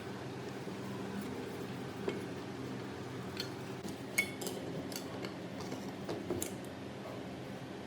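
Light metallic clinks and taps of small metal parts being handled, coming at irregular intervals over a steady low hum.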